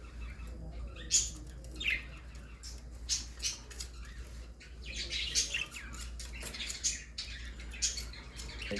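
Parrot squawking in a string of short, high-pitched calls, some sliding in pitch, over a steady low hum.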